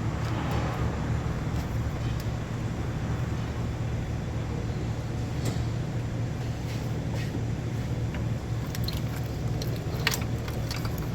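A steady low mechanical hum, with a few light clicks and taps in the last couple of seconds.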